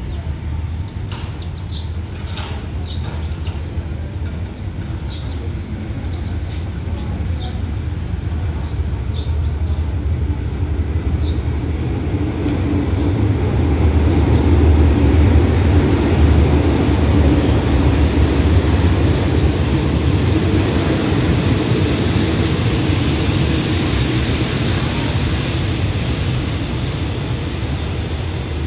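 Hitachi diesel-electric locomotive pulling a passenger train into a station. The engine's deep rumble and the rolling of the wheels grow louder to a peak about halfway through as the locomotive passes, then ease off as the coaches roll by and the train slows to a stop, with a thin high squeal coming in near the end.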